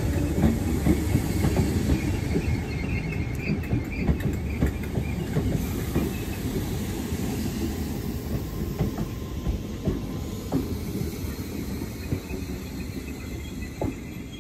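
Merseyrail Class 508 electric multiple unit running past close by and pulling away, with a low rumble and irregular clicks of wheels over rail joints. The sound fades steadily as the train draws off.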